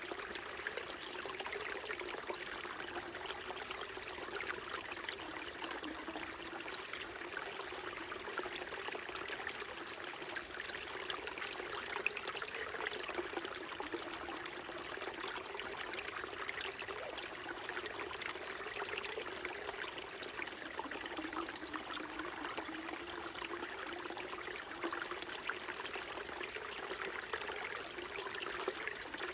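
Small mountain stream burbling and trickling over rocks, a steady, unbroken water sound.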